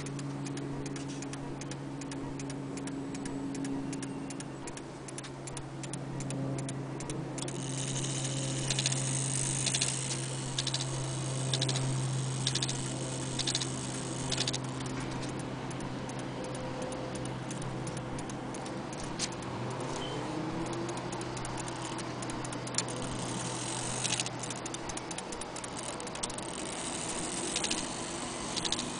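Vintage German HAC wall clock ticking steadily, with a low steady hum underneath.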